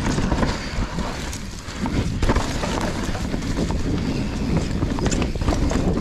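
Mountain bike riding down a loose dirt trail: wind rushing over the camera microphone, tyres crunching over dirt and rocks, and many short rattling knocks from the bike over bumps. It eases off briefly about a second and a half in.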